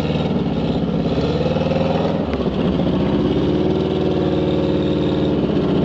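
Air-cooled MeMZ-968 V4 engine of a ZAZ-968M Zaporozhets revving hard under load as the car's rear wheels churn through deep mud. The revs climb, dip sharply a couple of seconds in, climb again and hold, then ease off near the end.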